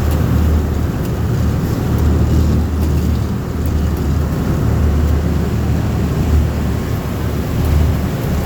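Amphibious duck boat's engine running with a steady low drone.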